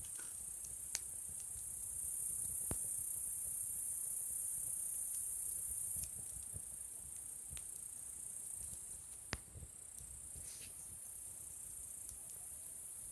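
A steady, high-pitched chorus of insects, louder for a few seconds from about two seconds in. A few sharp pops of burning wood sound from the campfire.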